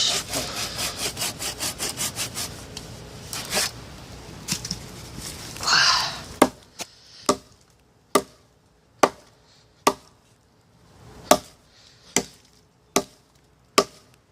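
Hand saw rasping back and forth through a wooden log in quick repeated strokes, which die away about six seconds in. Then come about ten sharp chopping blows of a hatchet on the wood, roughly one a second.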